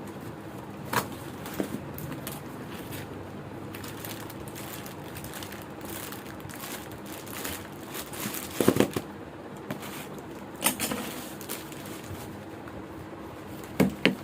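Plastic packaging of a garment parcel being handled and opened: a few sharp crinkles and rustles, loudest around the middle and near the end, over a steady background hum.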